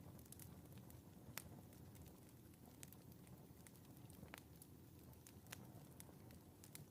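Faint fireplace fire crackling: scattered sharp pops, the clearest about a second and a half in and again past four seconds, over a low steady rumble.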